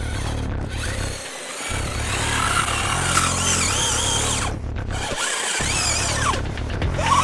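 Electric motor of a Kyosho Blizzard SR radio-controlled snow vehicle whining, its pitch rising and falling repeatedly with the throttle, over background music.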